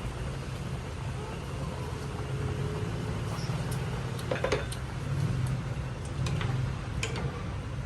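A steady low mechanical hum over a hiss, with a few short clicks and knocks. The strongest clicks are a cluster about halfway through.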